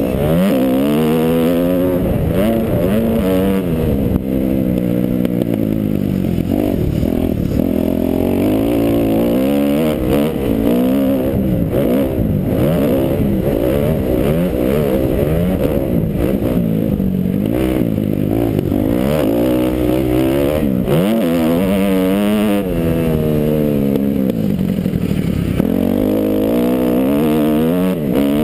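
Kawasaki KX250F four-stroke single-cylinder motocross engine, heard loud from a helmet camera. It revs up and drops back again and again as the rider works the throttle and gears around the track.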